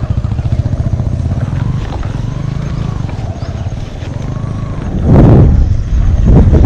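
Wind rushing and buffeting over the microphone of a bicycle coasting fast downhill, with two louder gusts about five and six and a half seconds in.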